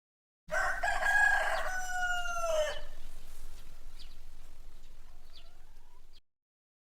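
Rooster crowing once, a long drawn-out call that drops in pitch at its end, followed by a quieter stretch with a few faint short chirps before the recording cuts off suddenly.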